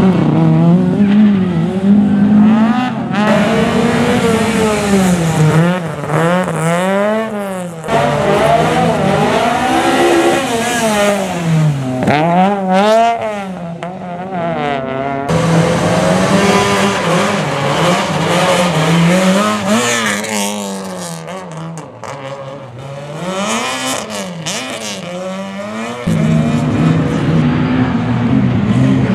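Rally car engines at full load, the pitch climbing and dropping again and again with gear changes and lifts off the throttle, with some tyre squeal.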